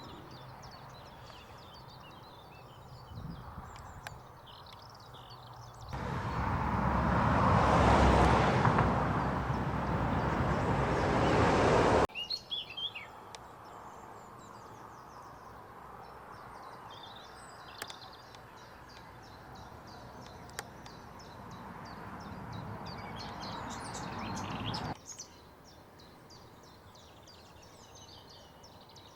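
Small birds chirping and singing, many short calls and trills throughout. About six seconds in, a loud rushing noise starts abruptly and cuts off just as suddenly about six seconds later.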